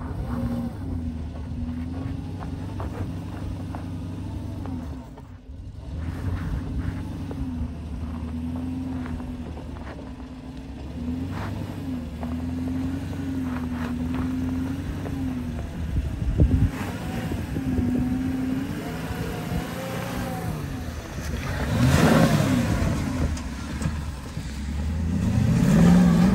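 Porsche Cayenne S 4.5-litre V8 running at low revs as it crawls over a rutted dirt track, its note wavering up and down. There are a few sharp knocks about two-thirds of the way through, and the revs climb twice near the end as it is driven harder.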